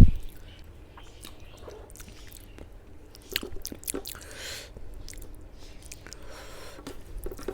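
Close-up chewing and biting of a mouthful of rice and spicy chicken curry, with soft wet smacks and small clicks. A single low thump comes right at the start.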